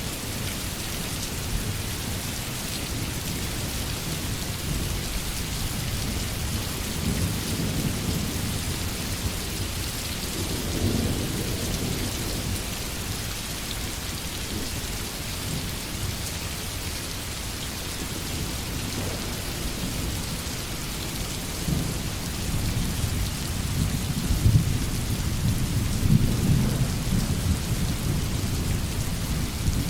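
Heavy rain falling steadily, with low rolling thunder that swells about a third of the way in and again, louder, over the last few seconds.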